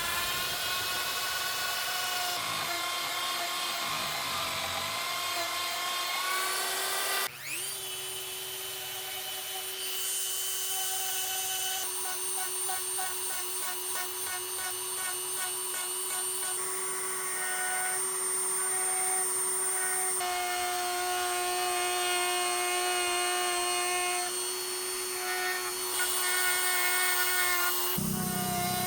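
High-speed rotary power-carving tool running against wood with a steady whine. It spins up at the start and again about seven seconds in, and its pitch shifts several times.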